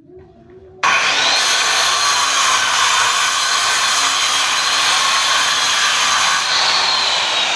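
A power saw cutting teak wood starts suddenly about a second in and runs loudly, with a high whine over the cutting noise. Near the end the whine rises briefly and then slides slowly downward.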